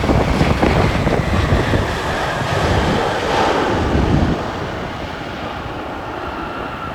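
Jet airliner passing close by, its engine noise a loud low rumble with gusty buffeting on the microphone that drops off about four seconds in, leaving a steadier hiss with a faint high whine.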